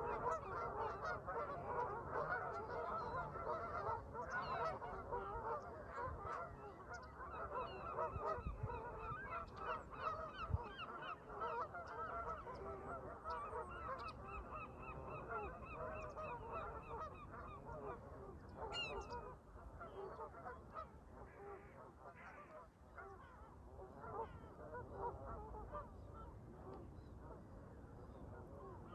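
A flock of Canada geese honking and chattering, with many calls overlapping and the calling thinning out in the second half. Higher, rapidly repeated calls from other birds come in over it at times.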